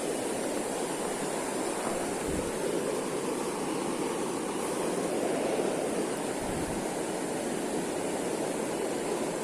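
Steady rush of flowing river water, with a steady high insect drone above it.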